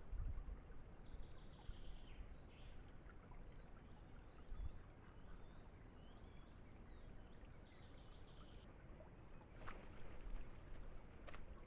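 A small songbird singing a faint, varied song of trills and quick up-and-down notes for about eight seconds, over a low steady rumble. Near the end come two sharp clicks.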